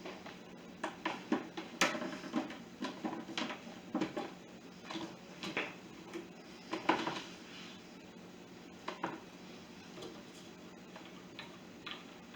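Irregular clicks and light knocks of a disc and plastic machine parts being handled on a disc resurfacing machine, thickest in the first half and thinning out after about nine seconds, over a faint steady hum.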